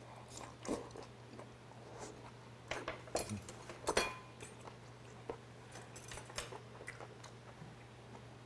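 A person chewing a mouthful of food, with irregular wet mouth clicks and smacks that are loudest about three to four seconds in, over a steady low hum.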